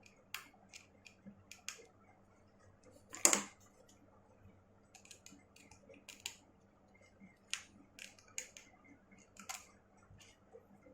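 Small sharp clicks and taps of precision tools working inside an opened iPhone 6S Plus while the battery connector is being freed, with one louder click about three seconds in.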